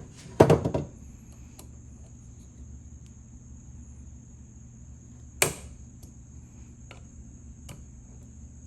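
Hand tools knocking against an old ratchet while its stuck screws are being worked loose. A quick cluster of knocks comes about half a second in, with a single sharp knock about five seconds later and a few light clicks between.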